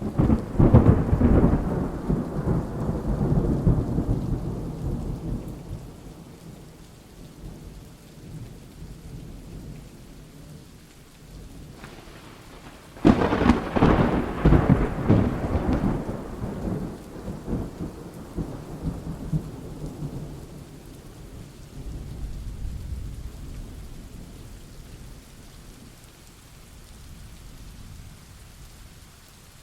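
Thunderstorm: rolls of thunder over steady rain. A clap at the very start rumbles away over about five seconds, a second clap about thirteen seconds in rolls on for several seconds, and a fainter rumble follows a little after twenty seconds.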